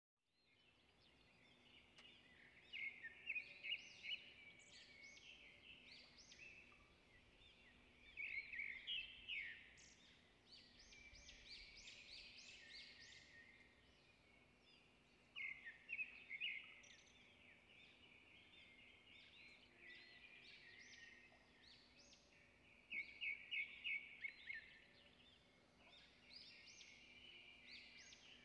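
Birdsong: small birds chirping and trilling in bouts of quick repeated notes every several seconds, over a faint steady low hum.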